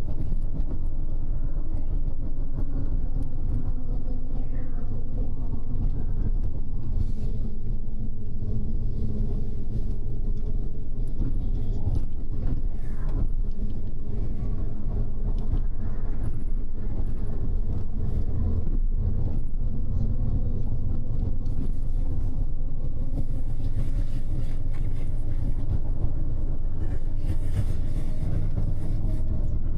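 Double-decker express bus driving at a steady speed: a constant engine hum and low road rumble, heard from inside the upper deck.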